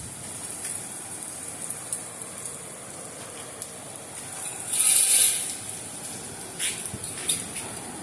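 Heavy thunderstorm rain falling steadily, a constant hiss with scattered sharp drop ticks. A louder hissing surge swells and fades about five seconds in, and a couple of smaller sharp spikes follow near the end.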